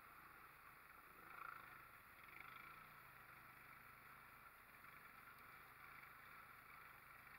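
Faint, steady running of a Honda Rancher ATV engine, swelling slightly about a second and a half in.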